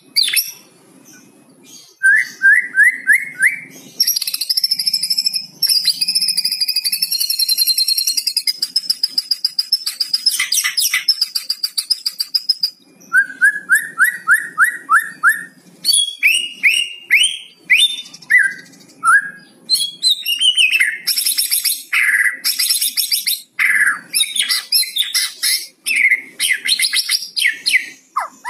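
White-rumped shama singing a varied song: fast runs of short rising notes, a long high warbling whistle, and harsh rattling 'kretekan' phrases.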